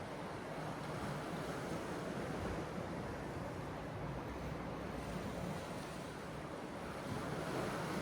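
Sea waves washing steadily onto the shore, the surf swelling a little louder near the end.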